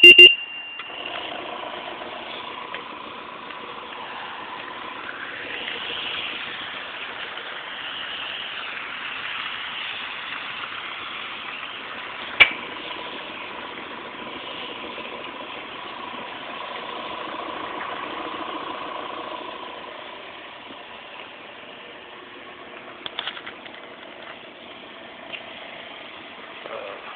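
Steady machine running noise with a faint steady hum, opening with a short, loud, high beep; a single sharp click sounds about halfway through and a few lighter clicks near the end.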